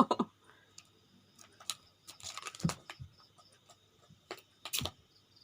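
A cat playing and moving about: scattered light taps and rustles, with a sharper knock near the end.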